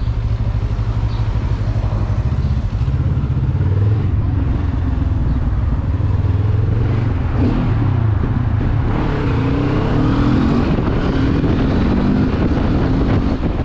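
Benelli TRK 702's parallel-twin engine running as the motorcycle is ridden, its note rising and falling with the throttle.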